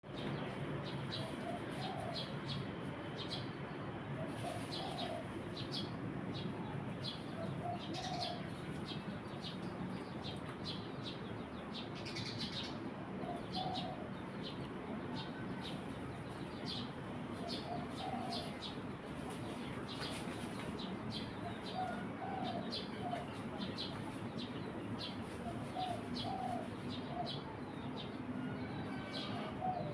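Eurasian tree sparrows chirping repeatedly, short high chirps about once or twice a second, over a steady background hiss. A lower call in groups of two or three recurs every few seconds.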